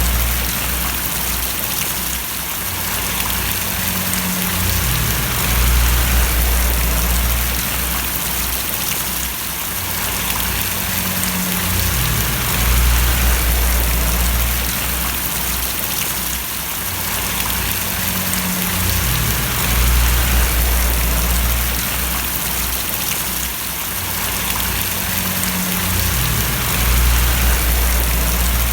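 Steady rain falling and splashing, an even hiss. Under it is a deep low rumble that swells and eases about every seven seconds.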